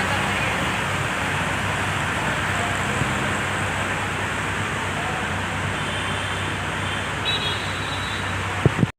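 Steady road traffic noise with a low engine hum. A couple of sharp knocks come near the end, and then the sound cuts off suddenly.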